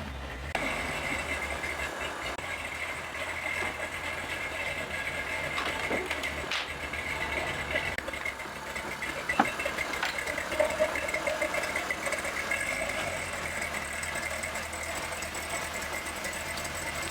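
Ford Ranger show truck's engine idling steadily, just started and warming up after sitting unused for a few days. A few sharp clicks stand out about six and nine seconds in.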